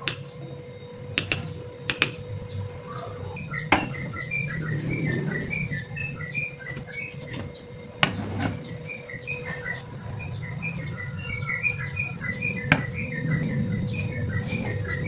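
Small birds chirping repeatedly, with a few sharp knocks scattered through, the first near the start and others around four, eight and thirteen seconds in.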